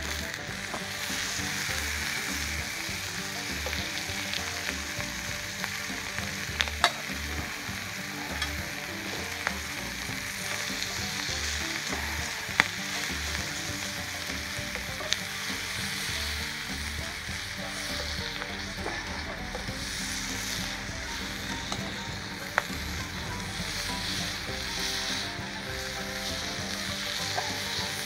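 Food sizzling steadily on an iron griddle over a fire pit, with a few sharp clicks standing out now and then.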